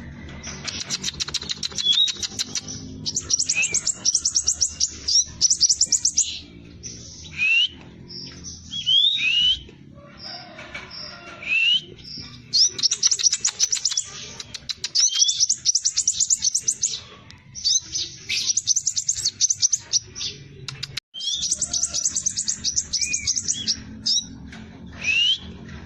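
Scarlet minivet (sepah raja) in full song: fast rolling high trills of about a second each, repeated over and over and broken by short rising whistled notes, over a faint steady low hum.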